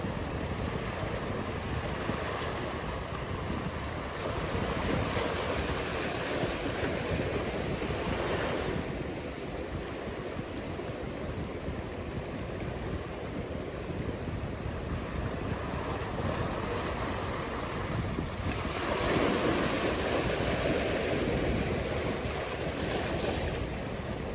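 Ocean surf: waves breaking and washing in as a steady rush, swelling louder twice.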